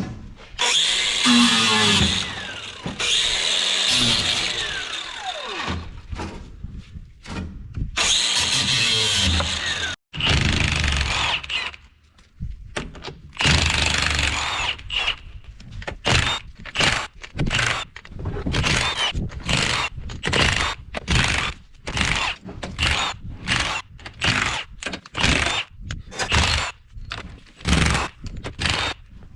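Handheld power tool running on the used transmission: long runs first, then many short bursts in quick succession from about halfway.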